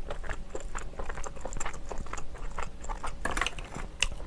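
Close-miked chewing of a piece of chewy steamed clam meat: many small wet mouth clicks and smacks, with a louder rustling patch about three seconds in and a sharp click near the end.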